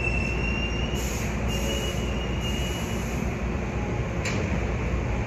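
Train noise: a steady low rumble with a thin high tone, rising slightly in pitch, over the first three seconds or so, and a faint click about four seconds in.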